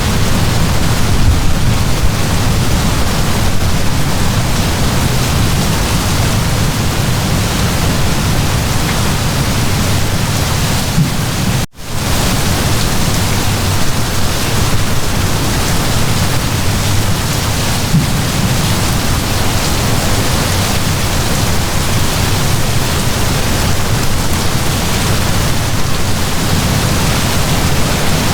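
Heavy downpour of rain: a steady, dense hiss with a strong deep rumble underneath. The sound cuts out abruptly for a split second a little under halfway through, then resumes.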